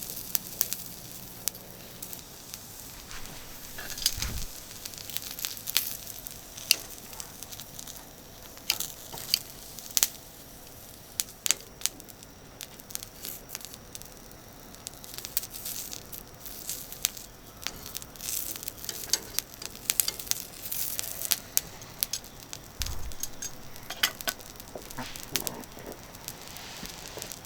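Small charcoal barbecue grill crackling and sizzling, with sharp pops scattered throughout.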